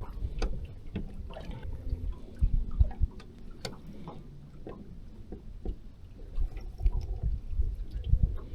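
Water lapping against the hull of a small fishing boat, with scattered knocks and clicks of gear being handled and an uneven low rumble.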